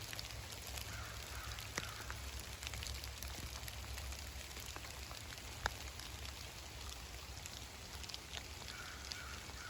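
Heavy rain falling: a steady patter with many separate drops ticking close by.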